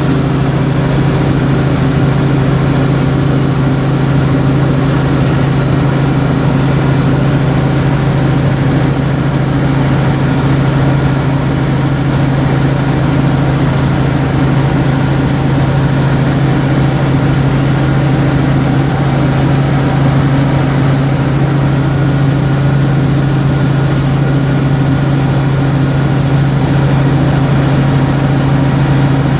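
Steady low drone of a car driving at an even pace, engine and road noise heard from inside the cabin, with no change in pitch or level.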